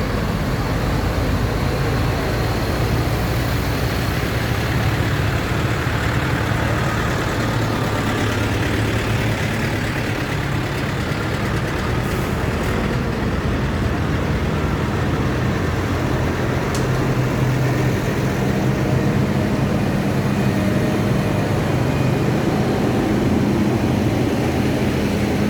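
Tractor engines running steadily with a low hum.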